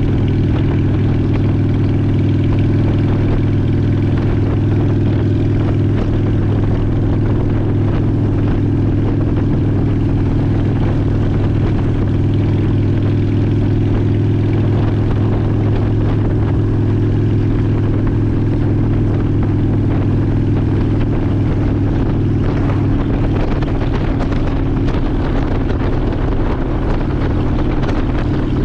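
2002 Honda Shadow ACE 750's V-twin engine running steadily at a near-constant pitch.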